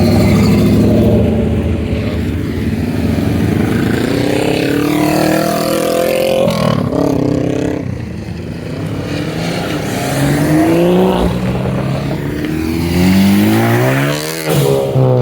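Several car engines accelerating and revving as cars drive past one after another, engine pitch climbing and dropping repeatedly, the last climb near the end.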